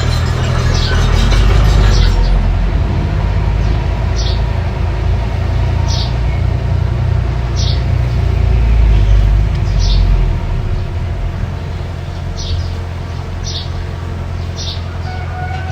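Mini bulldozer engine running with a steady low rumble that swells about two seconds in and again around nine seconds, easing off after about ten seconds. Short high chirps come every second or two over it.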